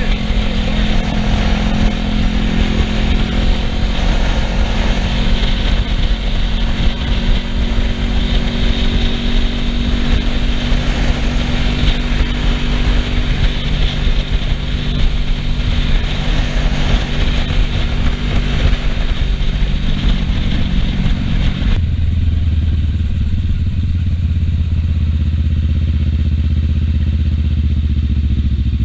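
Kawasaki Ninja 650R parallel-twin engine running under way, with heavy wind rush on the microphone. About three quarters of the way through, the wind noise drops away suddenly, leaving the engine's steady low note, as at idle when the bike has stopped.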